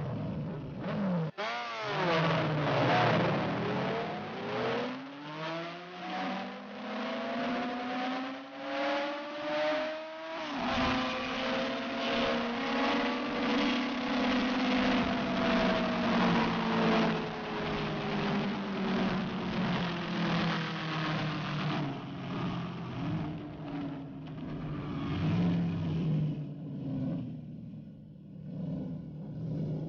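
Sport motorcycle engine revving up, rising in pitch twice, dropping sharply about ten seconds in, then falling slowly in pitch for a long stretch, with steady wind rush and buffeting throughout.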